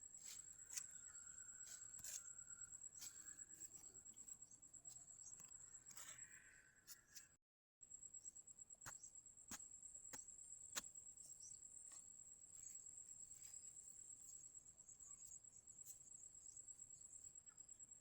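Faint, steady high-pitched trilling of an insect such as a cricket, with scattered sharp clicks, cut off briefly about halfway through.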